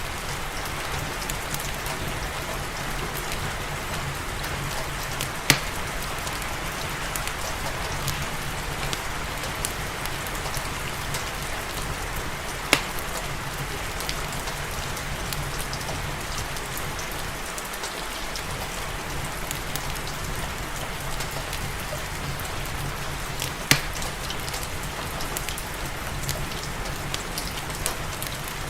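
Steady rain hiss mixed with a crackling wood fire in a fireplace, with three sharp pops standing out above the patter.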